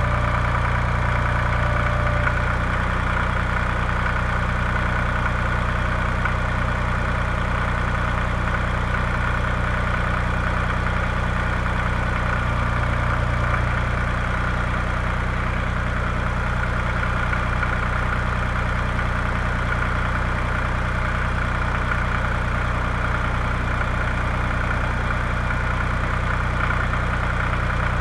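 Tractor engine running steadily at a constant speed, a low hum with an even pulsing beat.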